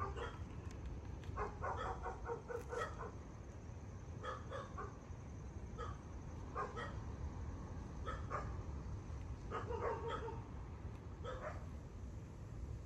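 Short animal calls, repeated in small clusters every second or two, over a steady low rumble.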